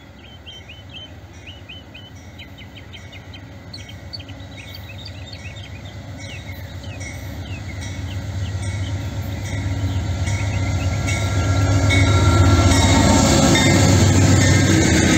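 Amtrak passenger train, a diesel locomotive hauling stainless-steel cars, approaching and passing at speed. The rumble and wheel noise grow steadily louder and are loudest near the end as the cars go by.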